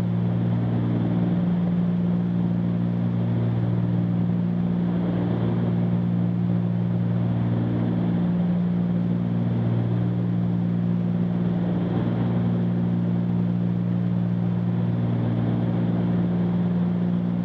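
Cabin drone of a Cessna 310Q's twin piston engines and propellers in cruise flight: a steady, even hum whose higher tones swell and fade slowly every few seconds.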